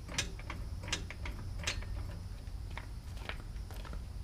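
Light metallic clicks and ticks at an irregular pace, a few a second, as the truck is jacked up to seat the wheel on its studs.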